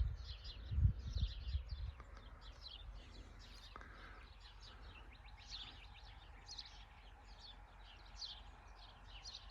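Small birds chirping with many short, high, downward-sliding calls repeating throughout, over a faint outdoor hiss. There are low rumbling thumps of wind or handling on the microphone in the first couple of seconds.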